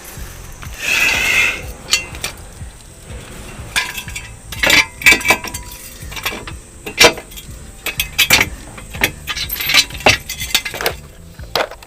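A run of sharp metal clinks and knocks from tools and parts being handled during an oil change, scattered unevenly through the second half. About a second in there is a short scraping hiss.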